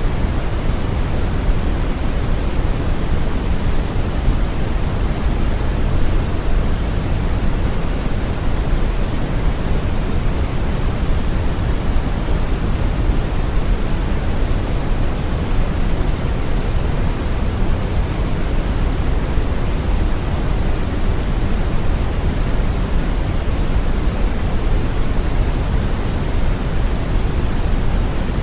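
Steady brown noise: a deep, even rushing hiss weighted toward the low end, with no change or events.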